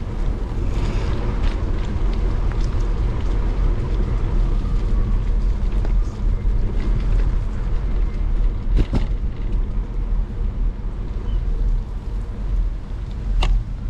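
Riding a bicycle in the rain: a steady low rumble of wind on the microphone mixed with tyre and road noise on wet pavement, with two sharp clicks from the bike, one about nine seconds in and one near the end.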